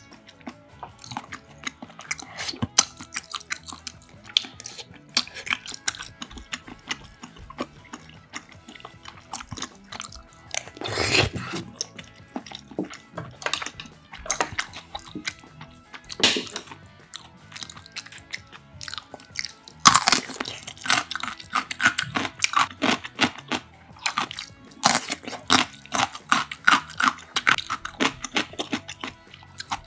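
Close-miked eating sounds: wet chewing broken by sharp crunchy bites and small clicks, with louder bursts of crunching about a third of the way in, around two-thirds, and again near the end.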